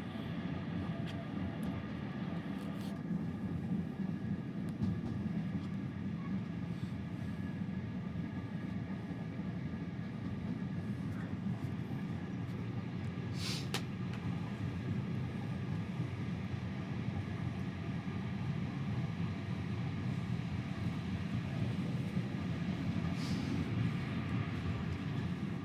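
Steady rumble of a train running along the track, heard from inside a passenger coach, with two brief sharp sounds, one about halfway through and one near the end.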